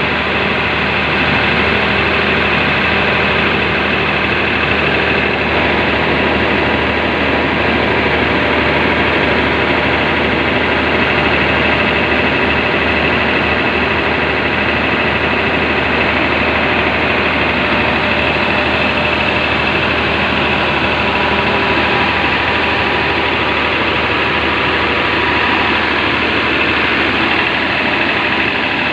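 Cummins KTAA19 turbocharged inline-six diesel engine running steadily on a test run, with an even, unchanging drone.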